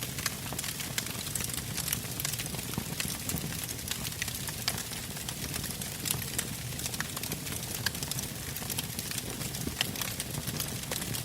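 Wood fire burning, logs crackling and popping with many short sharp snaps over a steady low rush of flame.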